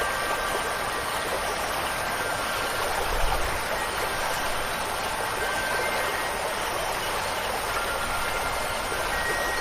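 Steady hiss of falling and running water, with wind chimes ringing faint, scattered tones now and then. A brief low thump comes about three seconds in.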